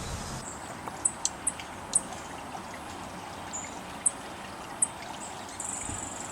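Steady trickle of running water, with about seven short, sharp, high chips from small birds scattered through it.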